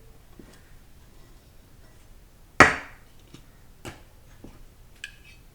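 A hard part from a 4L60E transmission knocked down onto the workbench: one loud sharp clank about two and a half seconds in, followed by a couple of lighter clicks of parts being handled.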